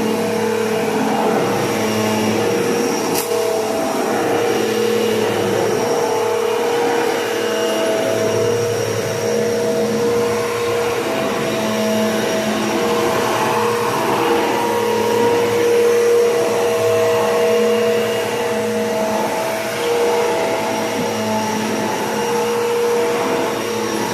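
Bissell PowerForce Bagless Turbo 6596 upright vacuum cleaner running steadily: a continuous motor whine over a rushing of air, with slight swells as it is pushed back and forth. One sharp click about three seconds in.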